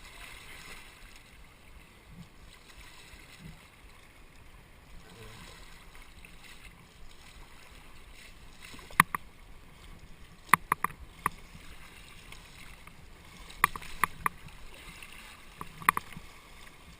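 Kayak paddling on a river: a steady wash of moving water, broken by sharp short knocks, a few at a time in the second half, the loudest sounds here, typical of paddles striking the kayak's hull.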